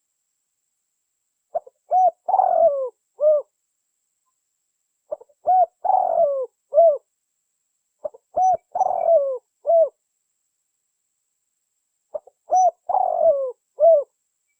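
Spotted dove (tekukur) cooing as a lure call: four matching phrases of short coos, each about two seconds long and a few seconds apart.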